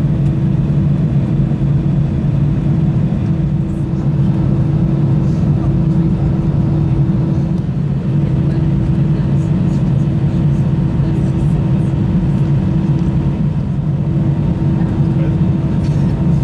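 Airbus A320 cabin during taxi: the engines running at low thrust, a steady low hum with a held drone and fainter whining tones above it.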